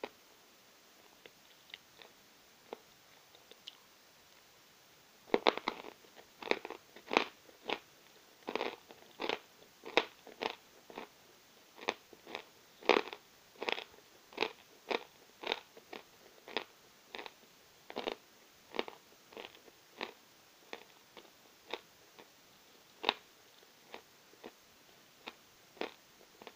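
Novy Oskol natural chalk being bitten and chewed, crunching close to the microphone. A few faint clicks lead to a first loud bite about five seconds in, then steady crunching chews at about one and a half a second, thinning out near the end.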